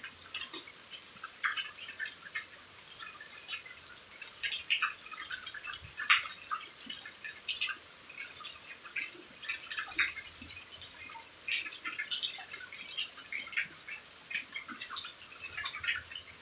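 Rain falling beside a house: a steady hiss with many irregular sharp drips and drop ticks.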